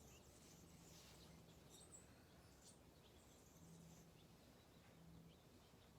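Near silence: faint outdoor ambience with a few scattered, high, short bird chirps and a faint low hum that comes and goes.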